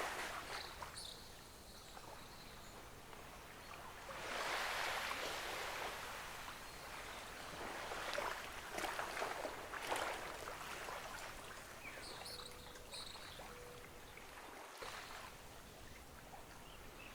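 Gentle ocean waves washing onto a beach, swelling and breaking about four seconds in and again around eight to ten seconds in, then receding.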